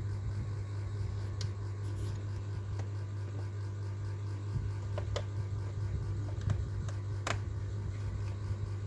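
A steady low hum with a few light clicks scattered through it, about three in all.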